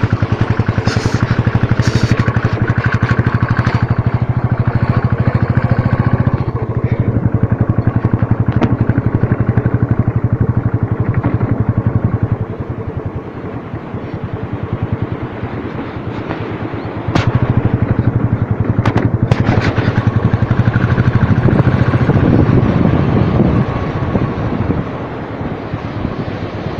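Motorcycle engine running steadily under way. It drops quieter for about four seconds midway, then picks up again.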